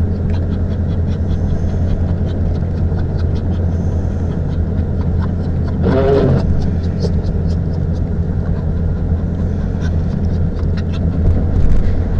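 Steady low rumble of a car's engine and road noise heard from inside the cabin while driving, with scattered light ticks. About halfway through comes one short pitched whine, which fits the dog riding in the car.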